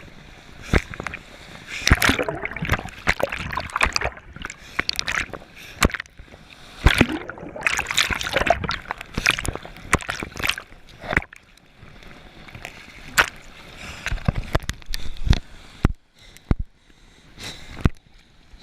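Water splashing and sloshing in irregular surges, with many sharp knocks and clicks mixed in.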